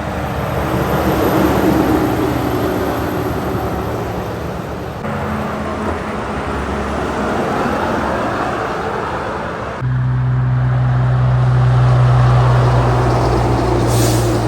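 Heavy trucks driving past on a highway: a steady engine drone and tyre noise. The sound changes abruptly twice, about five and ten seconds in, the last stretch with a stronger low engine hum.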